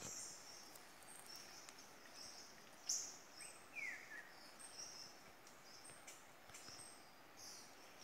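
Forest birds calling faintly: many short, high chirps and whistles over a soft background hiss. The loudest chirp comes about three seconds in, followed a second later by a short falling whistle.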